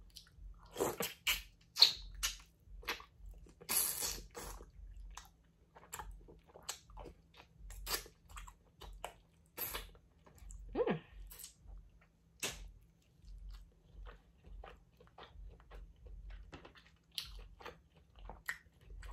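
Close-miked eating of a seafood boil of crawfish and mussels: chewing and biting with many short crunches and wet smacks, loudest and densest in the first few seconds.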